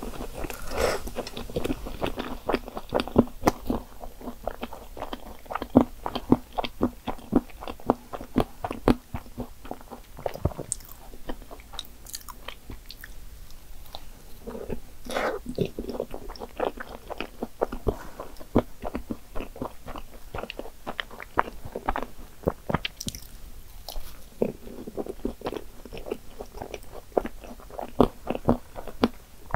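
Close-up chewing of choux cream puffs topped with whipped cream, Nutella, chocolate syrup and chocolate chips: soft, wet mouth sounds with many quick, irregular smacks and clicks.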